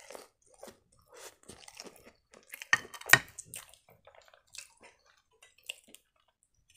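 Close-miked chewing of a breaded fish triangle: soft wet mouth clicks and crackles, with a sharp click about three seconds in.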